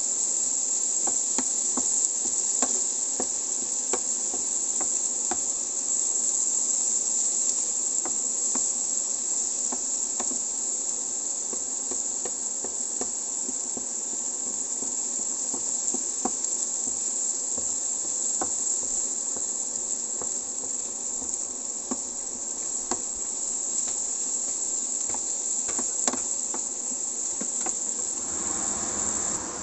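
Diced onion and tomato sizzling steadily in a hot nonstick frying pan, with irregular light knocks and scrapes of a wooden spatula stirring them against the pan.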